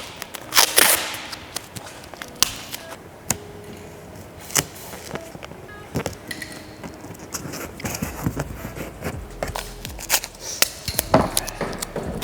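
Masking tape being pulled off the roll in short rips and pressed on around a car headlight, with many sharp clicks and cracks.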